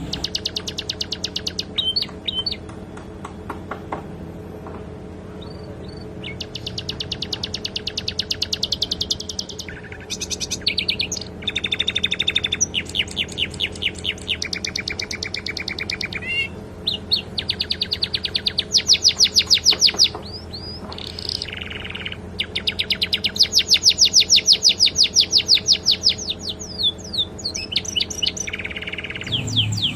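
Domestic canary singing long, rapid trills and rolls, bout after bout of fast repeated notes, its song laced with phrases learned from the sikatan londo. A faint steady hum lies underneath.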